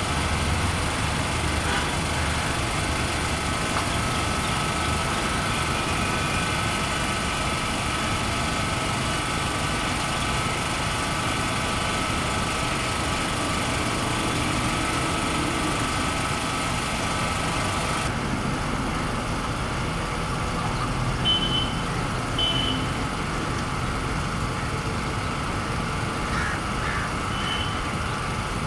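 Steady city road traffic: a continuous hum of passing and idling vehicles, with a few short high beeps in the second half.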